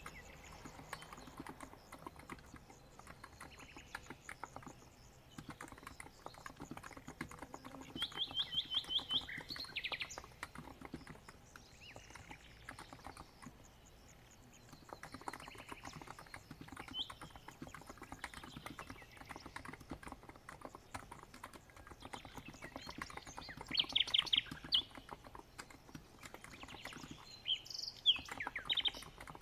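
Typing on a COX Empress capacitive (Topre-style) keyboard: a continuous patter of soft keystrokes. Birdsong joins in with quick trills of rapid high chirps about eight seconds in, again around 24 seconds, and near the end.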